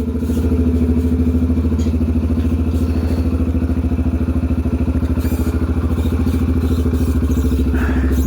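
2003 Yamaha TTR125L's single-cylinder four-stroke engine idling steadily, with an even, fast pulse.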